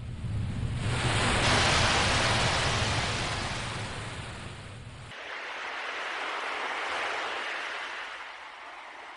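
Sea waves washing in, two slow swells, the first with a deep low rumble that cuts off abruptly about five seconds in.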